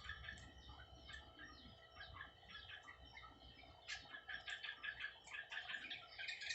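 Birds chirping: many short, high chirps, faint, coming thicker about four seconds in.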